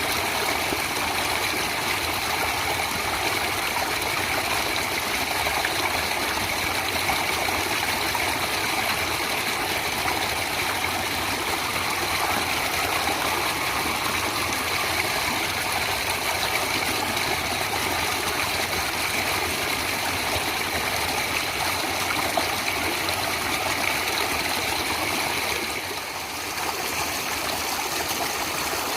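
Natural flowing water, a stream, rushing steadily, with a slight brief dip in level about 26 seconds in.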